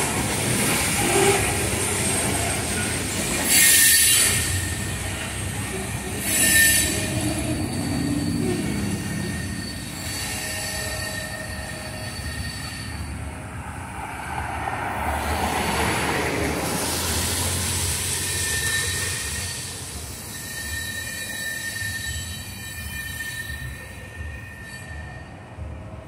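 Freight train of covered hopper cars rolling past, with the wheels squealing on the rails in thin, steady high tones over the rumble of the cars. There are two loud bangs, about four and six and a half seconds in.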